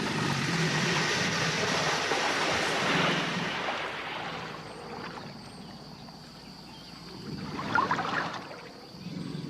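Water splashing and sloshing, loudest for the first few seconds, with a shorter burst of splashing about eight seconds in.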